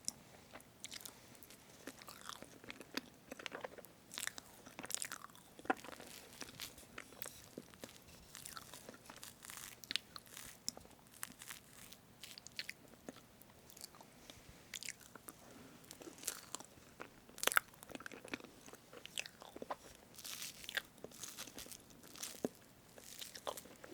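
Strawberry whipped-cream cake being eaten close to the microphone: chewing, with many small irregular wet clicks.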